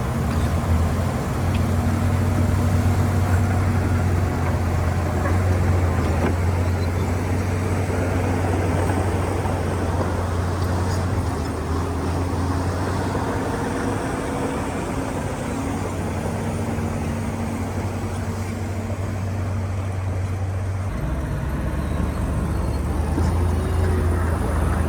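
Heavy diesel earthmoving machinery running steadily with a deep, even engine drone. Its note shifts a little about 21 seconds in.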